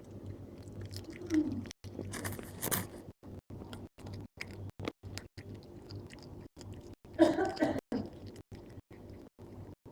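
Cat chewing and crunching through a gecko, with irregular bites and crunches. Two briefly louder sounds come about a second in and about seven seconds in.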